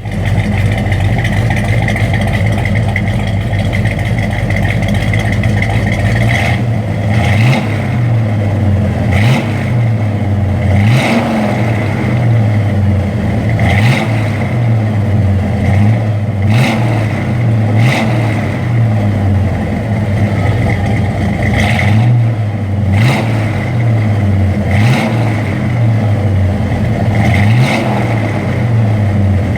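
1968 Dodge Charger's 383 big-block V8 idling through 2½-inch true dual exhaust with Jones Full Boar single-chamber mufflers. About six seconds in, the throttle starts being blipped in short revs every second or two, each rising in pitch and dropping back to idle.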